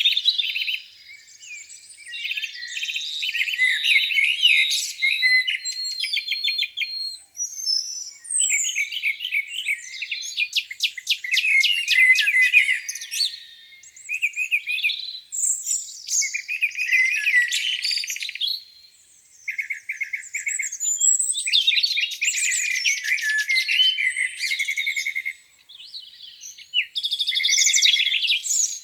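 Songbirds singing in a spring dawn chorus: overlapping, high-pitched phrases of trills and rapid chirps, repeating in bursts of a few seconds with brief pauses between.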